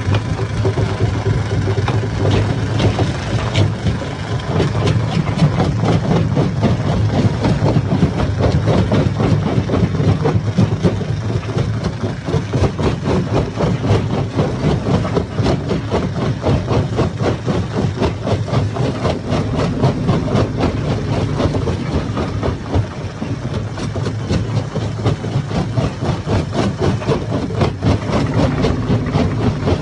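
Hammer stone crusher running under load: a steady machine drone with dense, continuous clattering as rocks are smashed inside it.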